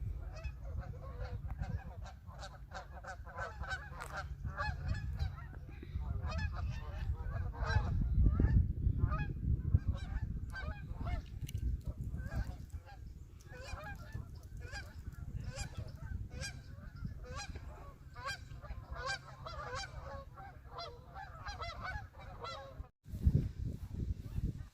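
A flock of geese honking, many short calls overlapping and repeating, over a low rumble of wind on the microphone.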